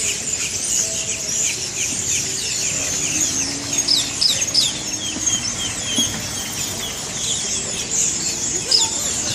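A large flock of birds calling at once: a dense, continuous chatter of short, sharp, downward chirps. The birds are being hazed out of palm trees with a bird-control laser.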